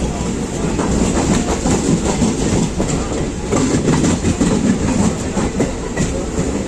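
Passenger train coach running on the track: a steady loud rumble with the clickety-clack of wheels rattling over rail joints.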